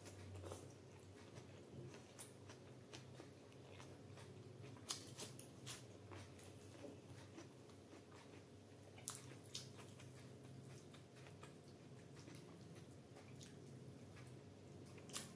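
Faint chewing and wet mouth sounds of a person eating soft food (roti with curry) by hand, with scattered small smacks and clicks, a few sharper ones about five and nine seconds in and one near the end.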